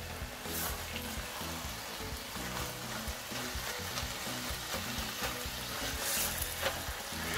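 Grated carrots, tomatoes and tomato paste sizzling steadily as they fry in a stainless steel pan, stirred with a spatula that scrapes the pan a couple of times.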